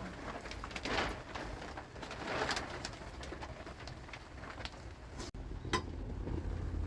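Doves cooing, with a sharp click near the end.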